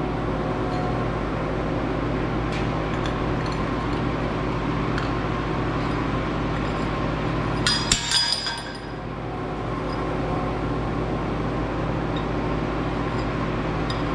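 A steady machine hum runs throughout. About eight seconds in, metal pieces clink together sharply with a short ring.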